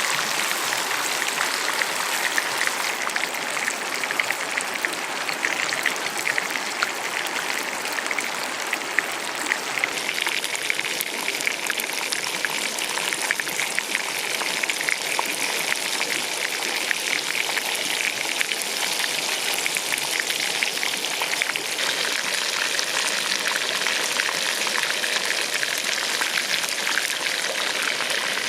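Hot oil sizzling and crackling steadily around a whole chicken deep-frying in a pan.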